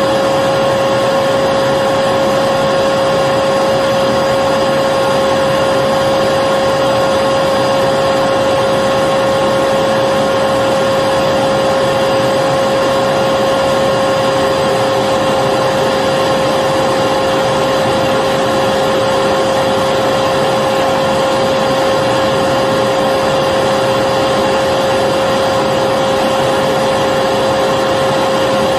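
Vacuum cleaner motor running continuously at a constant speed: a steady whine over an even rush of air.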